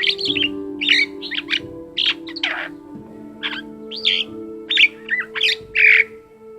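Vinous-breasted starling singing a quick, varied run of short whistles, chirps and harsh notes, switching voice from note to note, with one long falling note about two and a half seconds in.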